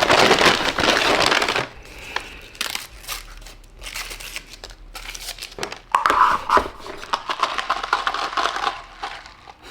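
Paper crinkling and tearing in a loud burst at the start, then scattered clicks and more rustling. This is the sound of a takeout straw being unwrapped and a drink cup and straw being handled.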